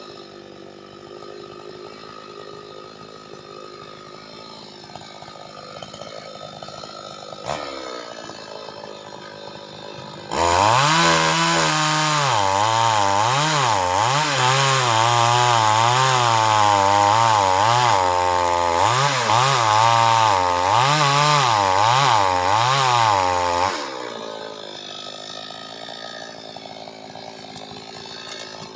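Chainsaw running at low speed, then opened up at about ten seconds and cutting wood under load for about thirteen seconds, its engine speed wavering up and down as the chain bites, before dropping back to a low, steady run.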